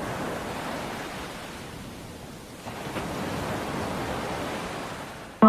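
Steady rushing hiss of water from a dancing fountain's jets, easing off a little around the middle and swelling again.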